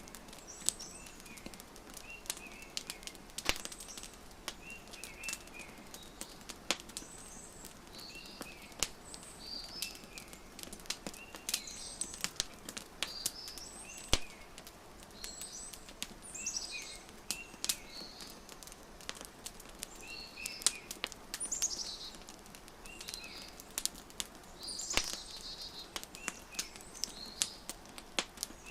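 Wood fire crackling, with frequent sharp irregular pops over a soft hiss, while small birds chirp again and again in short calls.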